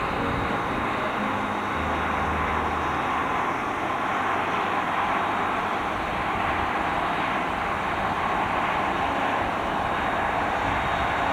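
Steady rushing roar of a train running, with no clear beat and a brief low hum about two seconds in.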